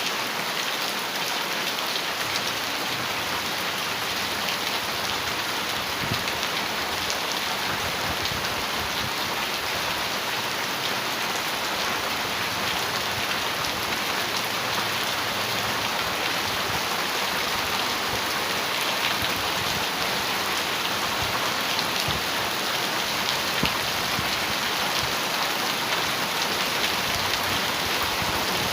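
Heavy rain falling steadily on a metal roof, a continuous hiss dotted with the sharp ticks of individual drops hitting the metal.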